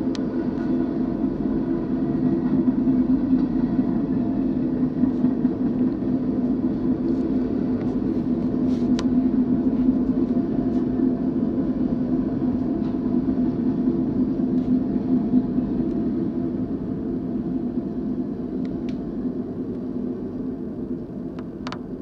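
BNSF manifest freight train's cars rolling past, a steady rumble of steel wheels on rail that fades over the last several seconds as the end of the train goes by.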